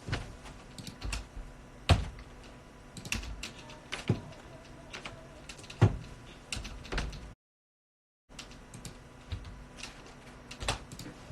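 Scattered sharp clicks and taps, irregular and a second or so apart, like keys or buttons being pressed. About seven seconds in the sound drops out completely for under a second.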